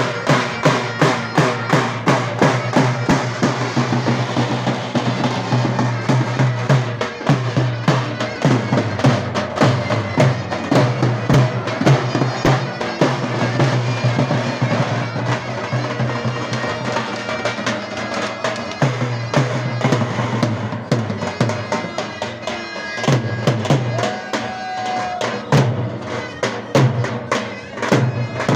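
Davul and zurna playing a dance tune: the zurna holds the melody over dense, regular davul drum strokes.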